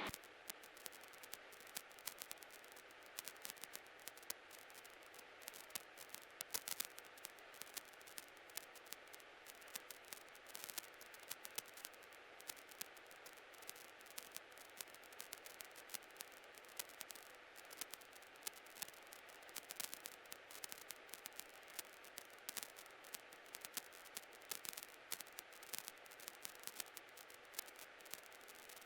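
Faint static on the cockpit audio line: a steady hiss with scattered crackling clicks throughout, and no engine or rotor sound heard.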